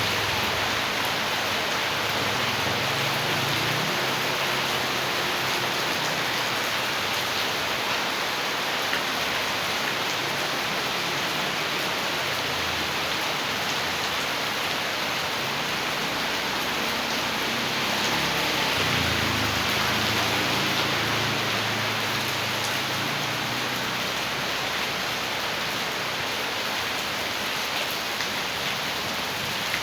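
Heavy rain pouring down, with a steady rush of rainwater runoff. A low rumble swells twice, near the start and about two-thirds of the way through.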